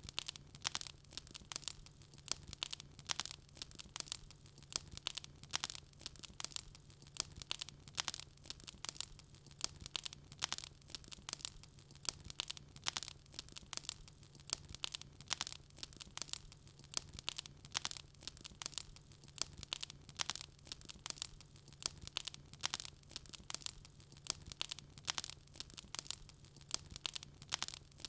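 Wood fire burning with continual sharp crackles and pops, several a second, over a faint low hum.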